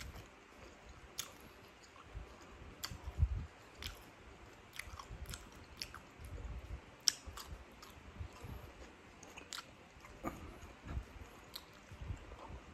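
Close-miked chewing and biting: a person eating with her fingers, with irregular sharp wet mouth clicks and soft low thumps.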